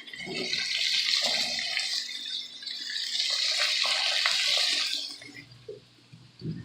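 Water running from a kitchen tap for about five seconds, then turned off, with a few light knocks of dishes under it.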